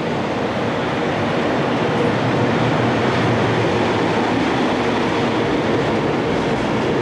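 A rail vehicle running along the track with a steady rumble of wheels and motors, rising slightly in the first two seconds.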